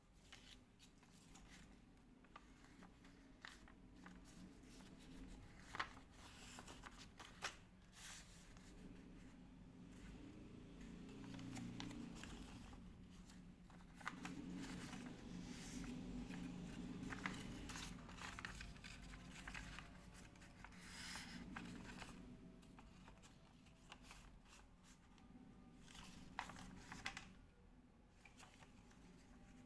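Faint paper being folded and creased by hand: scattered rustles and crinkles with a few sharper taps.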